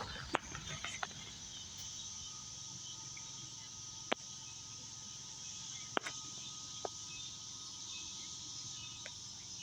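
Steady high-pitched insect chorus, with a few sharp clicks scattered through it.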